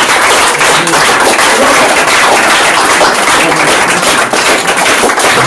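Loud, dense crackling noise made of many sharp irregular pops.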